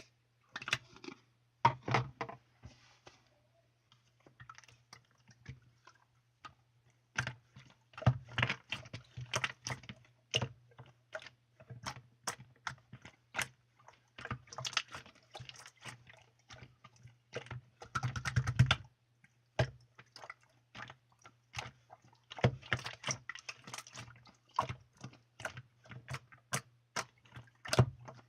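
Irregular quick clicks and taps, some in short clusters, with a faint steady low hum underneath.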